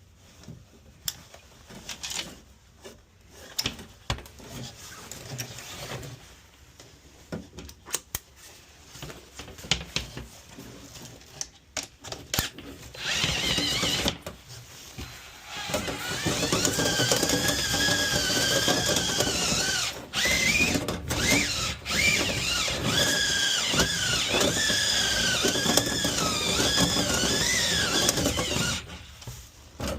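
Scattered knocks and clatter, then about thirteen seconds in a power drill starts and runs, its whine wavering up and down in pitch, spinning a rotary brush through the dryer vent duct until just before the end.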